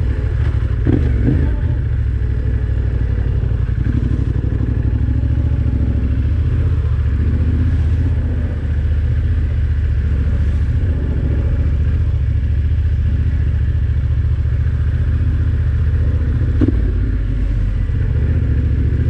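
Adventure motorcycle engine running steadily at trail speed on a dirt road, with short knocks from the bike about a second in and again near the end.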